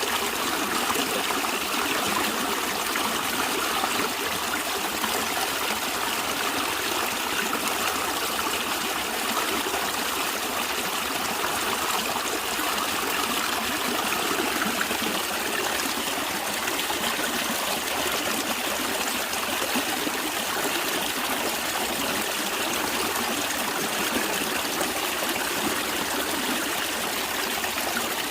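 Natural stream of water running and trickling, a steady, even rush with no breaks.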